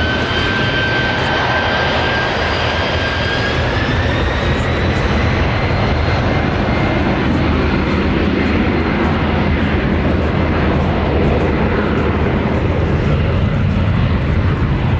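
Jet airliner engines running loud and steady, with a whine that climbs slowly in pitch over the first several seconds and then holds.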